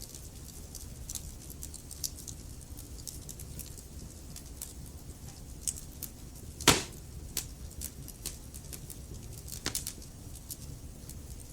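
Wood fire crackling in a fireplace: irregular sharp pops and ticks over a low, steady rumble of the flames, with one loud pop a little past the middle.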